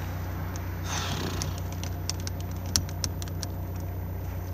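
A car engine idling steadily, heard inside the cabin, with a brief rustle about a second in and scattered plastic clicks and knocks from a hand fumbling beside the seat-belt buckle, the sharpest click a little past the middle.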